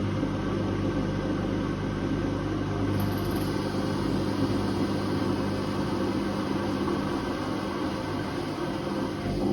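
Whirlpool Indiana 1400 washing machine running mid-program: a steady motor hum over the noise of the turning drum. The low hum tones fade about seven seconds in.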